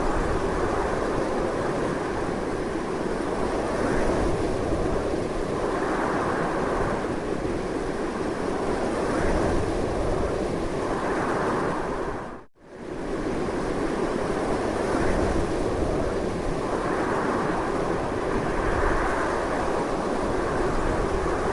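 Strong wind blowing as a continuous, loud rushing noise that swells and eases gently. It fades out to near silence for a moment about halfway through, then comes straight back.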